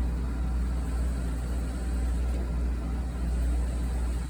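A steady low hum with a faint even hiss above it, unchanging throughout, like a running machine or motor.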